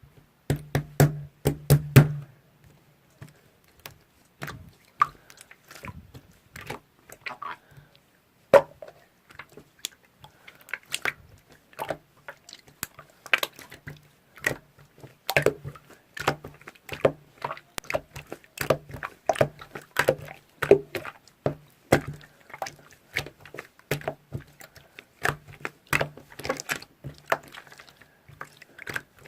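Close-up chewing of crunchy food: irregular sharp crunches and crackles, several a second, with a burst of dense crunching in the first two seconds.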